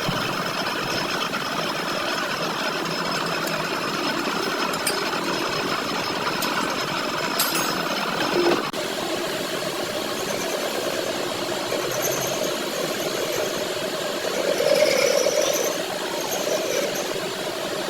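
A machine running steadily, its sound shifting slightly about nine seconds in, with a few light clicks.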